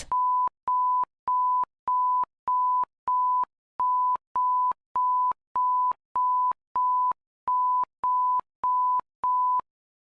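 Electronic alert attention tone: a single pure, high beep repeated sixteen times, about 1.7 a second, in groups of six, six and four with slightly longer gaps between groups. It is the attention signal that opens a simulated French public-alert broadcast.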